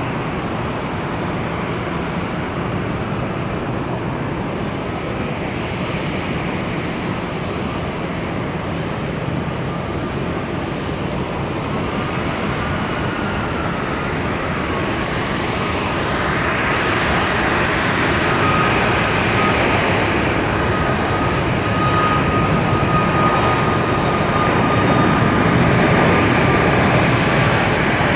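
Jet airliner engines running at the airport, a steady rumble that grows louder over the second half, with a thin steady whine coming in partway through.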